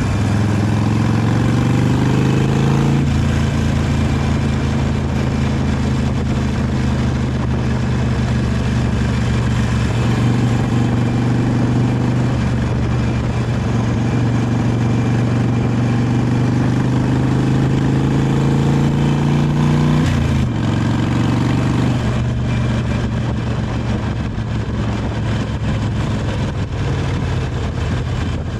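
Harley-Davidson 883 Iron's air-cooled V-twin on its stock exhaust, under way on the road. It pulls up in pitch for the first few seconds and drops suddenly on an upshift. It then runs at a steady cruise, with another brief break and shift in pitch about twenty seconds in.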